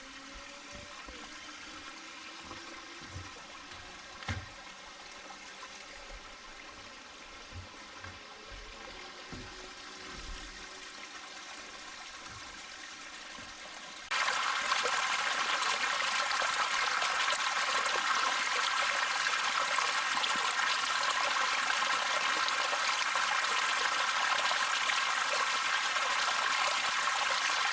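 Small rainforest waterfall running with a low dry-season flow: a steady rush of falling water that jumps abruptly louder about halfway through.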